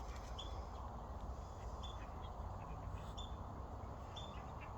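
Ground squirrel alarm chirps: short high notes repeated every half second to a second. A steady low background rumble runs under them.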